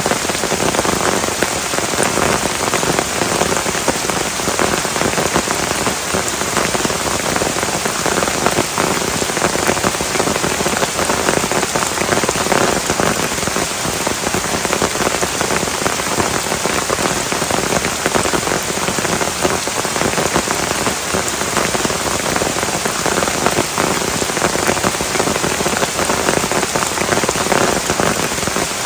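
Heavy rain pouring steadily, a dense patter of drops on surfaces with no let-up.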